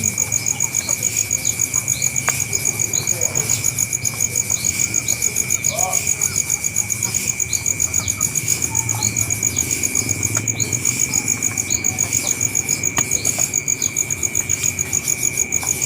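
Insects, crickets or cicadas, trilling steadily in a fast pulsing rhythm over a constant high whine. Short falling chirps are scattered throughout.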